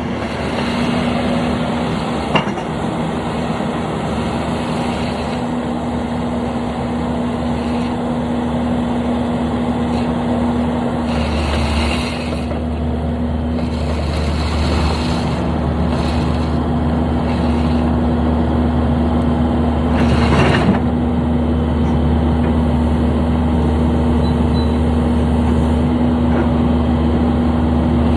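Heavy construction machine's diesel engine running steadily, a constant low rumble with a steady hum, with a sharp click a couple of seconds in and brief louder noisy surges around the middle and about two-thirds through.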